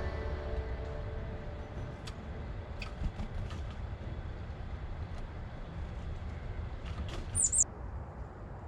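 Steady low rumble of distant traffic with a few faint ticks. About seven seconds in, a small bird gives a brief high chirp.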